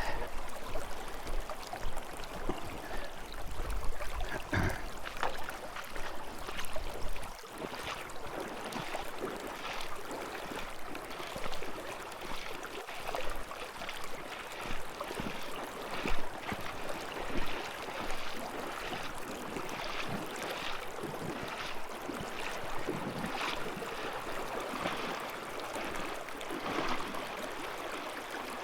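Kasilof River flowing: a steady rush of moving water, with scattered light knocks and crunches over it.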